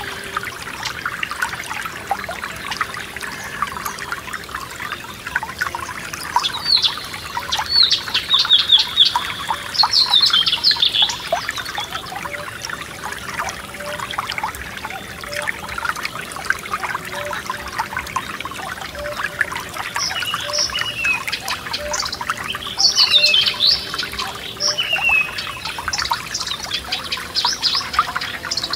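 A small forest stream trickling and bubbling steadily. Songbirds sing short, high phrases over it, in two clusters about halfway apart.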